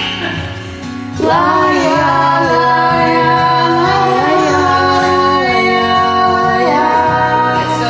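Music: a female voice comes in about a second in and sings a long wordless melody over the instrumental accompaniment, holding and sliding between notes.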